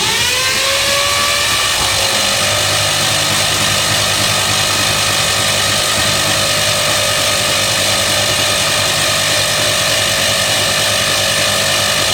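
Murphy diesel engine being cranked over by its starter without firing. A whine rises over the first second or two as it spins up, then holds a steady pitch, with a constant hiss. The cranking is turning the stiff engine over to free it up.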